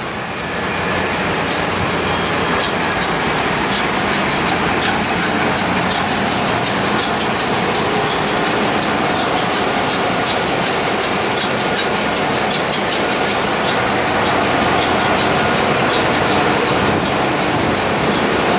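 Engine-room machinery aboard a bulk carrier running: a loud, steady din with a fast, even ticking over it from a few seconds in.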